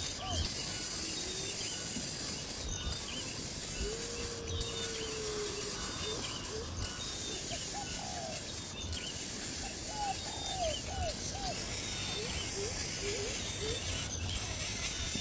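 Birds giving short, hooked chirps in small clusters, with one longer, even note about four seconds in, over a steady high hiss of outdoor background.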